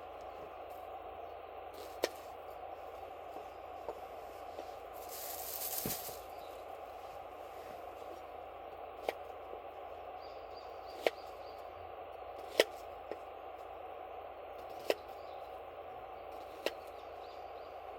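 Campfire firewood crackling: about six sharp, separate pops spread over a steady background hiss, with a brief rushing hiss about five seconds in.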